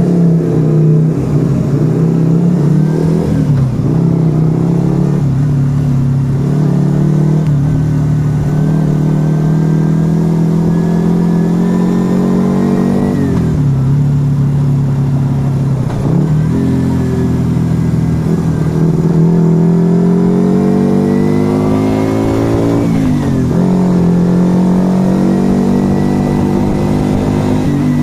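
Yamaha XV125 Virago's small V-twin engine through an aftermarket Turbo Kit exhaust, riding under load. The engine note climbs slowly as it pulls, then drops sharply at each gear change, about four times.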